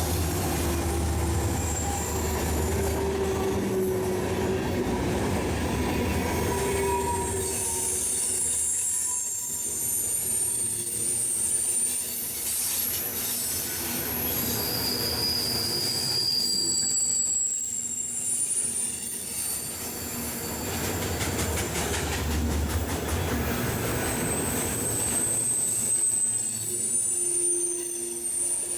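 Railroad cars rolling past on steel rails, a steady rumble with high-pitched wheel squeals that come and go several times.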